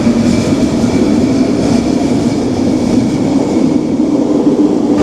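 Vancouver SkyTrain running, a steady rumble with a hum from its linear induction motors that rises slightly in pitch over the first few seconds.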